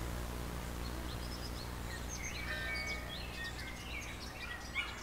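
Small birds chirping in short quick notes, starting about a second and a half in and growing busier, over a low steady hum that fades away.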